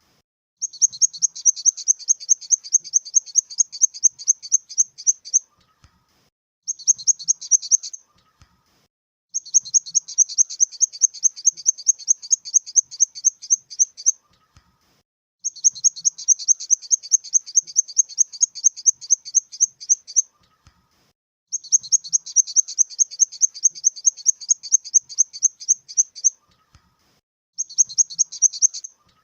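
Grasshopper stridulation: bouts of rapid, high-pitched buzzing pulses, about six a second. Each bout lasts about five seconds, with a pause of a second or so between bouts.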